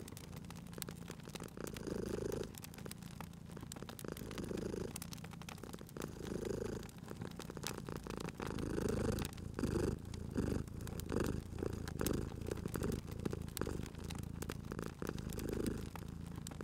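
Domestic cat purring close up, the purr swelling and fading with each breath, over a wood fire crackling with sharp pops.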